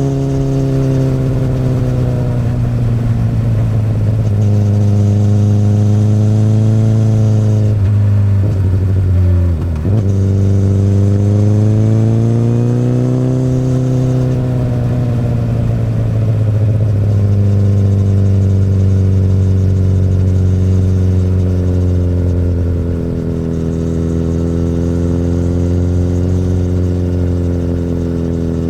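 2008 Honda CBR1000RR's inline-four engine through an Akrapovic exhaust, ridden on the road: the engine note rises and falls with the throttle, dips sharply about ten seconds in and climbs again, then runs more steadily near the end.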